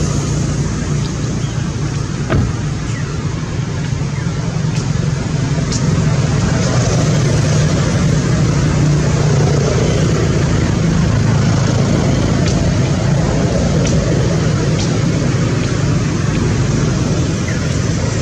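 Steady vehicle engine and road noise: a continuous low drone with a few faint clicks.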